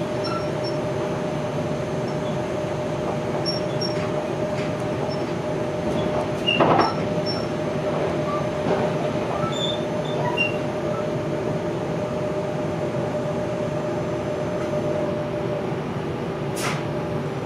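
A Z 8800 RER C electric train heard from inside the passenger car while under way: a steady rolling rumble with a constant motor whine. A louder knock from the wheels and track comes about seven seconds in, with a few fainter ones after it.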